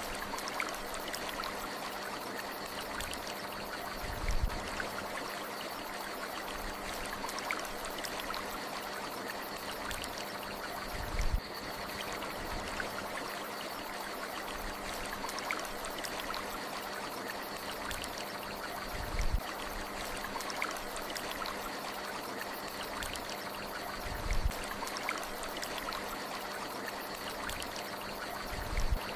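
Stream water flowing and trickling in a steady rush, broken by four brief low thumps a few seconds apart.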